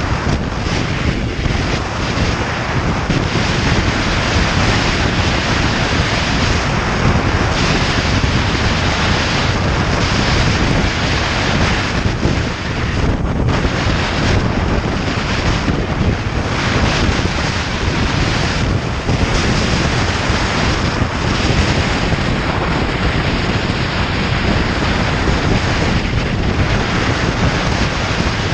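Loud, steady wind rushing over the microphone of a moving motorcycle, with the bike's engine and road noise buried in it.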